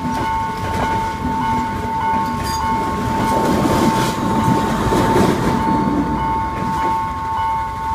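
Sri Lankan diesel passenger train rolling past a level crossing, its wheel and rail noise swelling about three to five seconds in as the last car goes by. Over it the crossing's warning alarm rings a steady high tone with a regular pulse.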